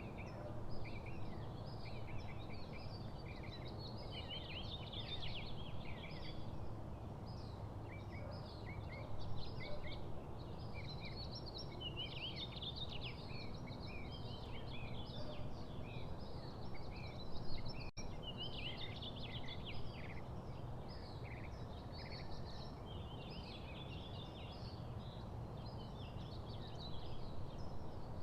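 Many small songbirds chirping and twittering almost continuously, over a steady low background rumble; the sound cuts out for an instant about two-thirds of the way through.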